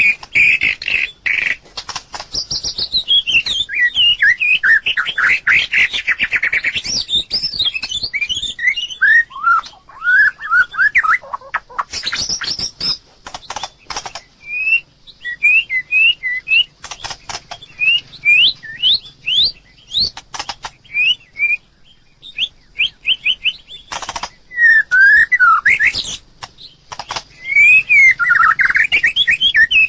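White-rumped shama singing: a long, varied run of whistled notes sliding up and down, mixed with many sharp clicks.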